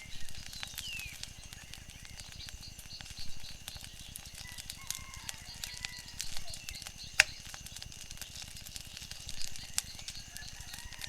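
Wood fire crackling with scattered sharp pops, the loudest about seven seconds in. Behind it run short chirping calls of birds and a steady high pulsing trill.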